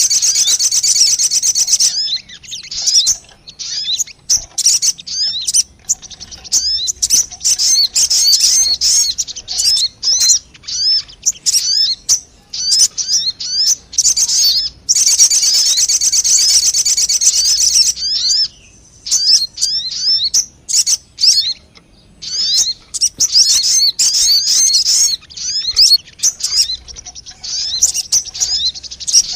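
Sogon bird lure call: loud, high chattering trills alternating with runs of quick, sharp slurred chirps, in repeating phrases.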